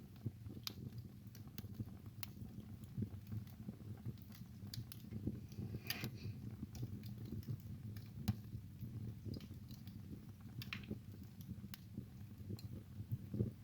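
Wood fire burning in a fireplace: irregular sharp crackles and pops over a steady low rumble of the flames, with a small burst of crackling about six seconds in.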